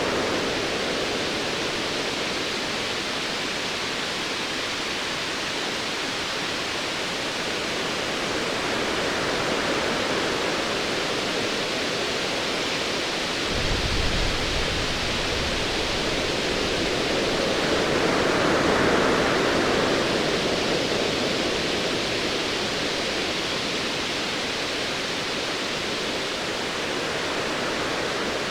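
Ocean waves washing in a steady hiss that swells and eases slowly. About halfway through, a low rumble of distant thunder comes in and fades over several seconds.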